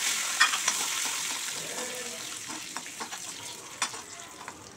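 Cashew nuts sizzling in hot ghee in a small pan while a steel spoon stirs them, clicking and scraping against the pan a few times. The sizzle fades over the few seconds.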